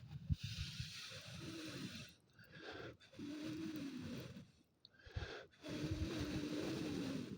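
A person's breath: three long, hissy exhalations with a faint wheezy tone, each lasting one to two seconds, with low thumps underneath.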